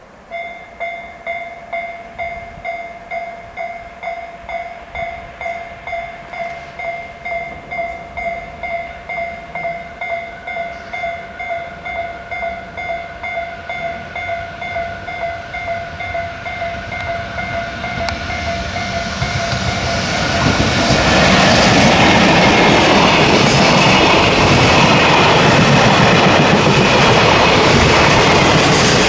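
Railway level-crossing warning bell ringing about twice a second as a freight train approaches, with a steady high whine joining about ten seconds in. About twenty seconds in, the JR Freight EF64 electric locomotive and its container wagons pass close by, and their loud running and wheel noise drowns out the bell.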